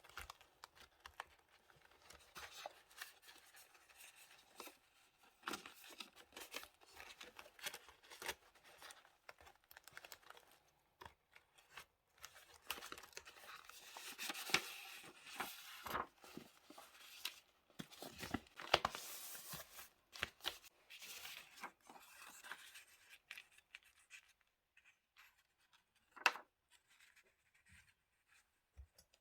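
Paper being torn, rustled and crinkled in diary decorating, with many light taps and clicks; the activity is busiest in the middle and thins out later, and one sharp knock comes near the end.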